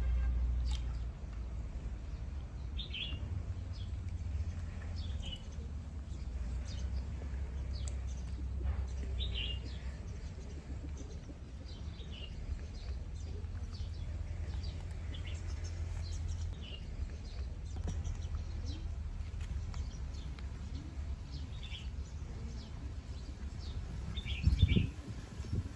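A small bird chirping outdoors, short high calls every second or two, over a steady low rumble. A low thump near the end.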